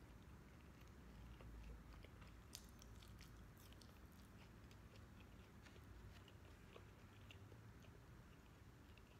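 Faint close-up chewing of a mouthful of sisig and rice: soft irregular mouth clicks and smacks over a low steady hum.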